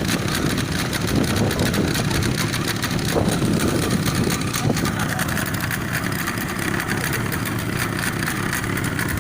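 Motorboat engine idling steadily while the banana boat it tows is boarded, heard as an even low rumble.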